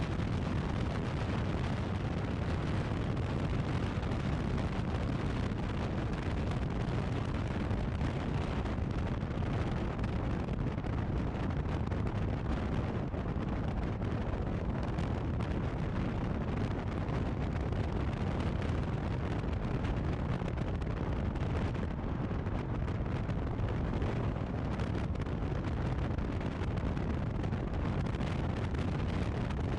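Steady deep rush of wind buffeting the microphone of a motorcycle-mounted action camera at riding speed.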